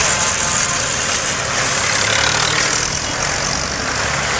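Tractor engines running steadily, a low engine rumble under a broad hiss.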